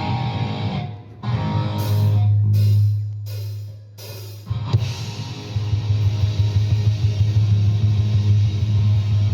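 Rock music with guitar and drums: a few sharp crashes in the first half, then a heavy, steady low guitar-and-drums groove from about five seconds in.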